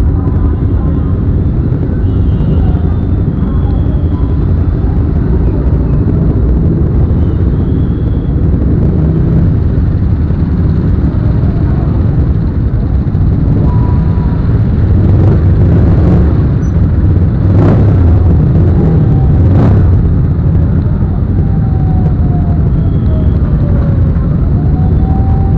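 Motorcycle riding along: a loud, steady low rush of engine and road noise, with a few brief sharp sounds near the middle and faint rising and falling tones near the end.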